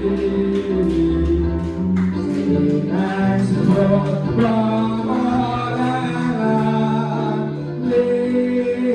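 Gospel singing in a church service: voices holding long notes over instrumental accompaniment with a steady beat.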